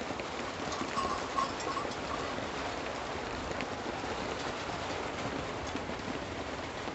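Heavy rain pouring down steadily in an even hiss, with a few short, faint high notes about a second in.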